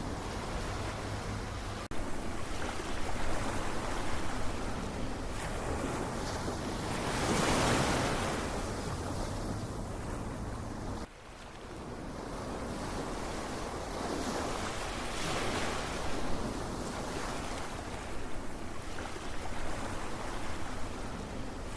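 Ocean waves surging and washing ashore in slow swells, one wave building and breaking louder about a third of the way in. About halfway through the sound drops off abruptly and fades back in, like a splice in a looped recording.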